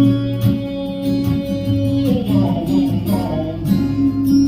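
Live country song: a male singer holds one long sung note for about two seconds, then sings on, over strummed guitar and a steady low bass line.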